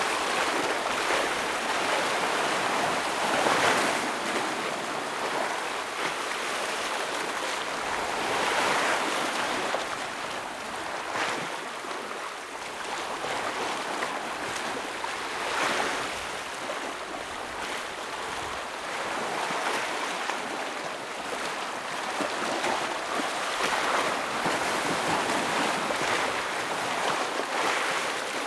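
Ocean waves breaking on a rocky shore, a steady wash of surf that swells with a louder break every few seconds.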